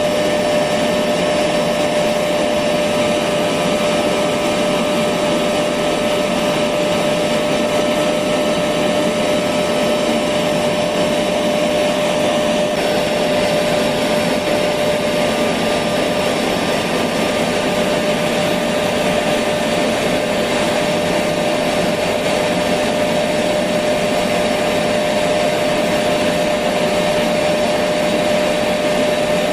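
Electric vacuum cleaner running steadily, an even rushing noise with a constant whining tone, used as white noise to lull a baby to sleep.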